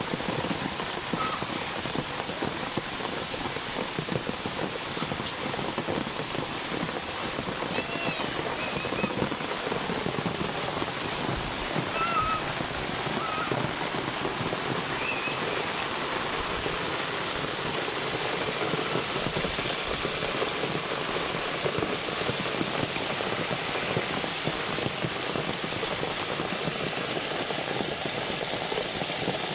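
Heavy rain falling steadily, an even hiss that does not let up. A few faint, brief high-pitched calls break through it near the middle.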